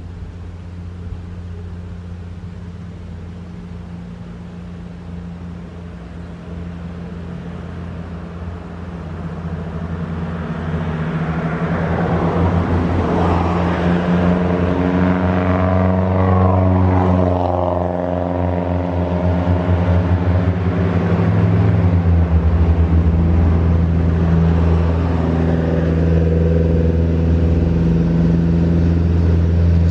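A road vehicle's engine running with a low steady hum, getting louder from about ten seconds in and staying loud. Around the middle a higher engine and tyre noise swells and fades, as of traffic passing on the road.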